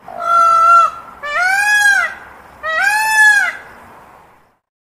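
Indian peafowl (peacock) giving three loud calls, the first held level, the next two rising and then falling in pitch.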